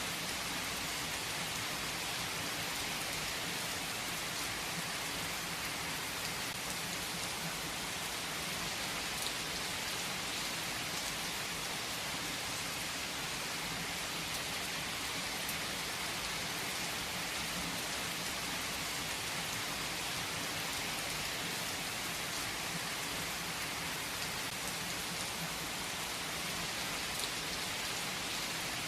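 Steady rain falling and pattering on surfaces, an even hiss with a few distinct drop ticks.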